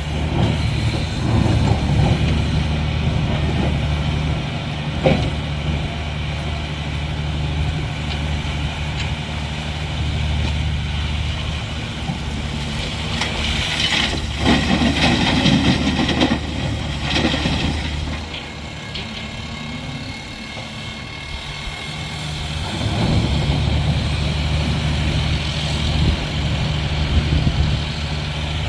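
Heavy diesel construction machine running steadily, with a sharp knock about five seconds in and a louder, noisier working spell about halfway through before the engine settles back.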